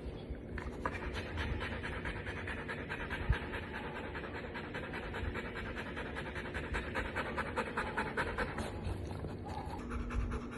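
A golden retriever panting steadily and quickly, close by; the panting starts about half a second in.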